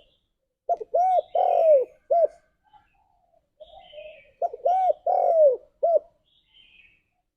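Spotted dove cooing: two phrases, each of about four notes (a short note, an arched coo, a longer falling coo and a short closing note), the phrases about three and a half seconds apart.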